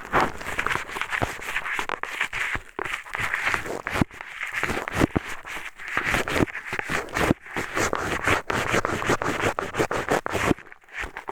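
Eyeglasses worked as an ear pick against a microphone's artificial ear: dense scratchy scraping and rustling with many small clicks.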